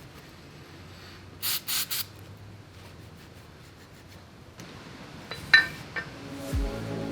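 Three quick hissing bursts of spray, cleaning the engine parts, followed a few seconds later by a sharp metallic clink. Background music begins near the end.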